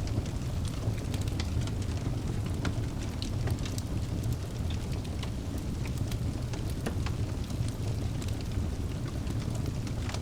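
Wood fire burning in a fireplace: a steady low rumble of flames with frequent small, sharp crackles and pops of the burning logs.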